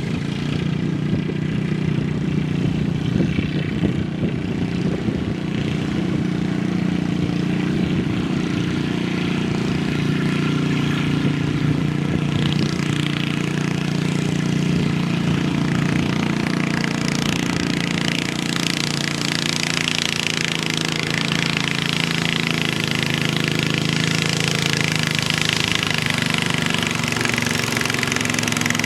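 Garden pulling tractor engine running loud and steady at a near-constant pitch, with more hiss in the upper range from about eighteen seconds in.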